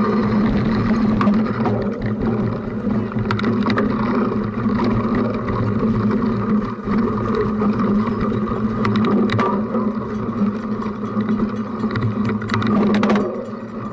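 Cyclocross bike being ridden hard over rough ground, heard through a camera mounted on its front: a steady drone of tyres and wind, with scattered knocks and rattles as the bike shakes.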